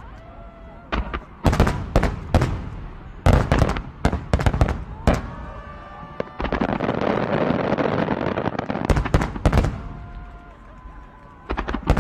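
Aerial fireworks shells bursting in quick clusters of sharp bangs, with a few seconds of dense, continuous noise just past the middle and a fresh volley of bangs at the very end.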